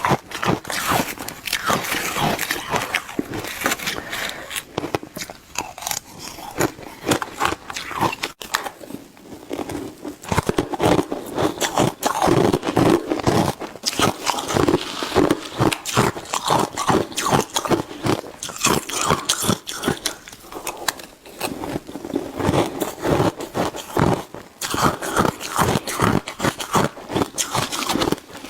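Shaved ice being bitten and chewed, a rapid, continuous run of crunches and scrapes.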